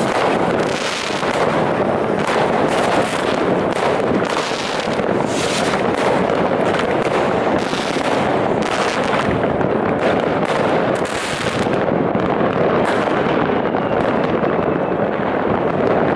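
Fireworks and firecrackers going off in a dense, unbroken barrage of bangs and crackling. The sharp cracks thin out a little over the last few seconds.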